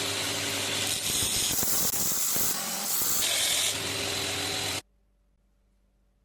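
A power tool running, with a steady motor hum under a loud hiss, as it works on the steel. The hiss changes character twice, and the sound cuts off abruptly about five seconds in.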